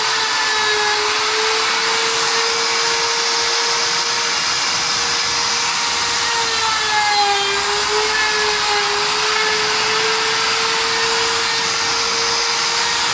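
Router in a planing jig running at speed and cutting across rough-sawn lumber: a steady high motor whine over the hiss of the cut, the pitch sagging a little under load about halfway through.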